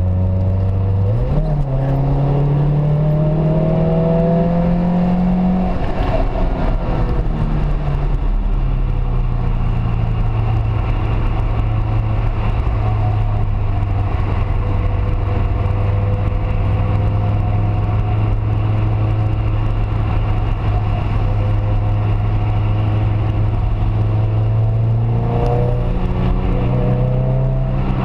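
Peugeot 206 RC's four-cylinder engine under way: it revs up over the first few seconds, drops back about six seconds in, holds a steady note for most of the time, then climbs again near the end, over steady road noise.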